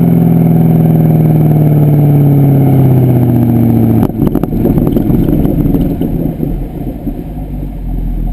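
Pontiac G8 GXP's 6.2-litre LS3 V8 through a Corsa exhaust, a loud steady drone whose pitch falls slowly as the revs drop. About four seconds in it breaks off abruptly into a rougher, quieter rumble that fades a little toward the end.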